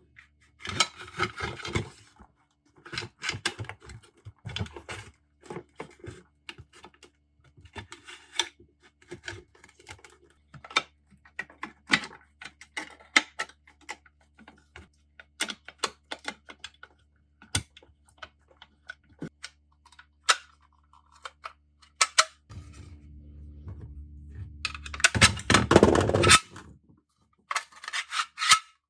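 Irregular clicks, taps and light knocks of small metal tool parts being handled and fitted on a workbench. Near the end there is a few-second stretch of low hum that builds into a loud rushing burst.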